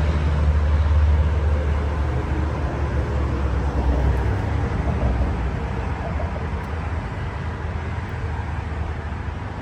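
Steady low rumble of vehicle noise, easing slightly toward the end.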